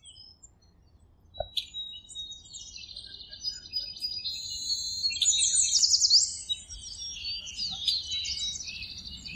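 Songbirds chirping and singing, with several short trills and quick rising and falling whistles overlapping. The calls are sparse at first and grow busiest around the middle.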